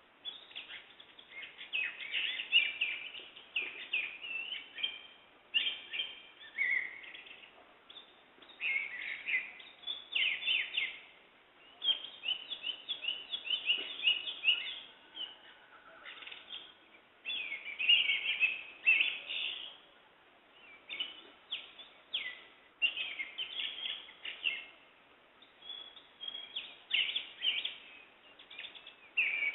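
Several birds singing and calling, with many quick chirps and short trills in bursts and brief pauses between them.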